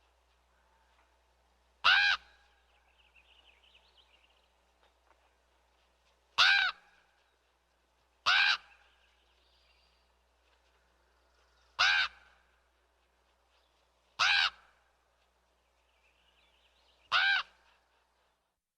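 A bird giving six short, loud calls spaced a few seconds apart, over faint background chirping from other birds.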